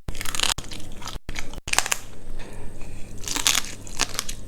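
Close-miked crunching bites and chewing of food, a rapid irregular run of crunches, broken by two short silent gaps about a second in.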